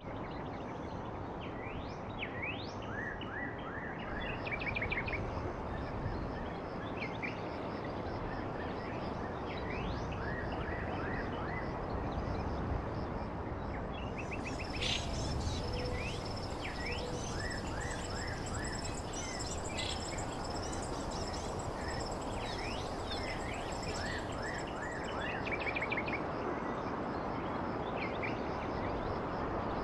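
Steady blizzard wind noise with small birds chirping on and off in short, high, quick notes. A thin, high-pitched trill sets in about halfway through and runs for some ten seconds.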